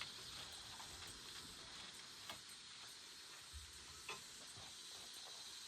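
Very quiet background with a faint high hiss and two light clicks or taps, about two and four seconds in.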